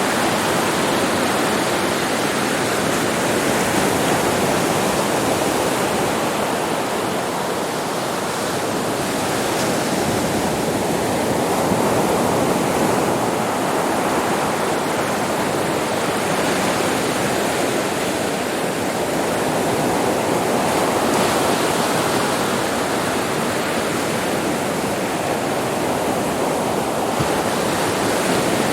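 Sea surf on a beach: a continuous wash of waves that swells and eases slowly, with no single sharp break standing out.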